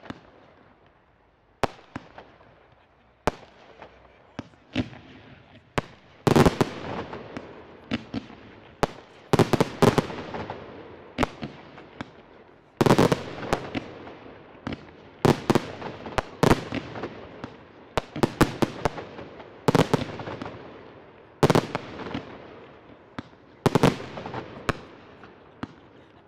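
Aerial fireworks shells bursting in a rapid series of sharp bangs, each trailing off in a reverberant echo. The bangs come thickest from about six seconds in.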